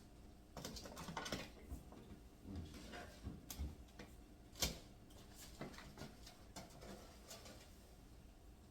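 Scattered light knocks and clicks of cookware being handled, the sharpest about four and a half seconds in.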